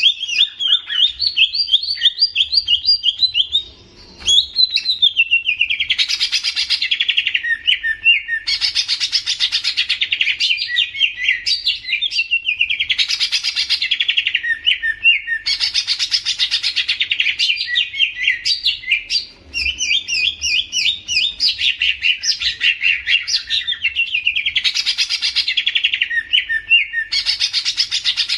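A songbird singing on and on: fast, chattering, warbling phrases with rapid trills, swelling into louder, fuller bursts every few seconds.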